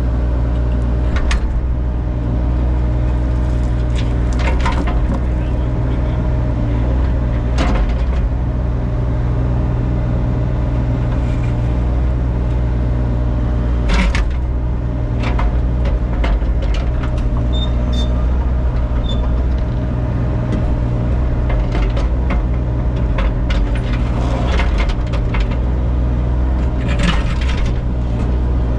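Mini excavator's diesel engine running steadily, with scattered sharp clanks and scrapes of the bucket working old driveway patching loose.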